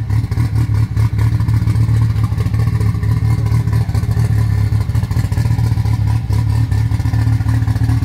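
Nissan 200SX (S14) with its turbocharged SR20DET four-cylinder idling steadily: a loud, low-pitched engine note with a fine, rapid pulse and no revving.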